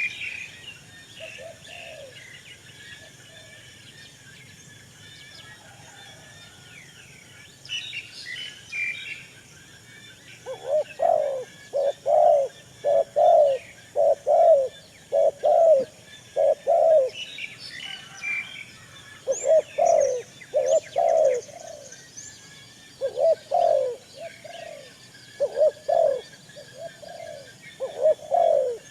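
Pigeons or doves cooing: a long series of short low coos, about two a second in groups, starting about a third of the way in. Small birds chirp and twitter higher up, mostly early on and around the middle.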